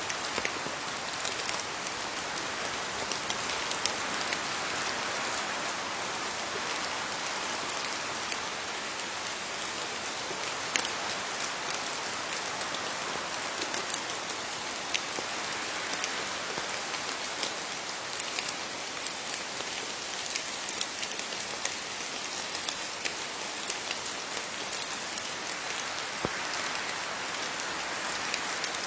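Steady rain falling on leaves, an even hiss with many separate drops ticking through it.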